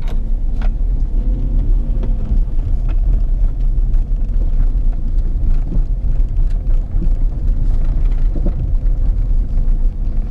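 Inside the cabin of a 2014 Hyundai HB20 driving over an unpaved, bumpy road: a steady low rumble of engine and tyres, with several scattered knocks from the front suspension. The mechanic suspects a stabilizer link or ball joint knocking.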